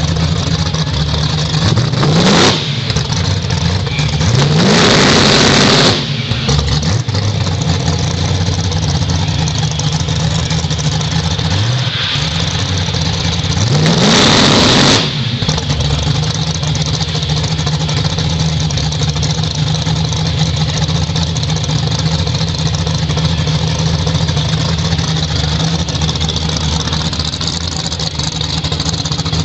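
Fox-body Mustang drag car's 5.0 V8 idling through a loud exhaust, revved four times: two quick blips about two and twelve seconds in, and two longer, louder revs held for a second or more, about five and fourteen seconds in.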